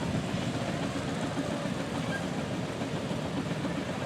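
Engine running at a steady speed, an even, unbroken mechanical sound with no change in pitch or loudness.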